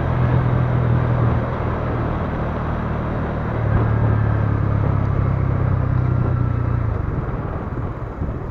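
Bajaj Pulsar N160's single-cylinder engine running at cruising speed under the rider, with a steady rush of wind and road noise. The engine note swells twice and eases off near the end as the throttle is rolled back.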